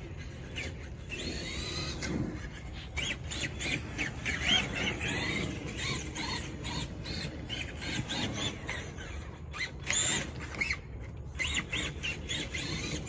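Traxxas Summit RC truck's electric motor and drivetrain whining in short throttle bursts. The pitch rises and falls again and again as the truck accelerates and slows.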